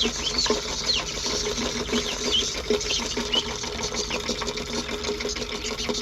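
Chickens scratching and pecking at a swarm of cicadas, with many short high falling chirps and small scuffling ticks over a steady buzzing hum.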